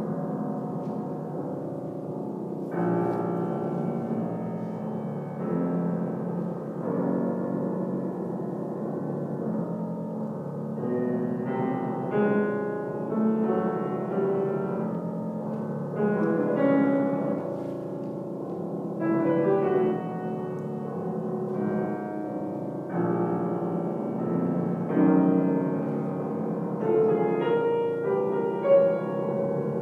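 Solo piano playing a slow piece of sustained, pedalled chords; from about eleven seconds in, higher notes enter above the chords.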